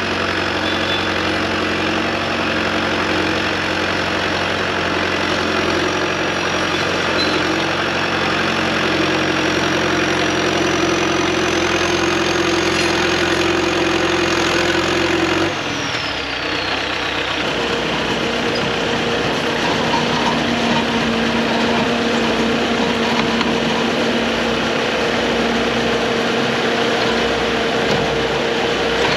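Large excavator's diesel engine running steadily with a thin high whine over it; about halfway through the engine note changes suddenly to a different steady pitch and the whine slides down and fades.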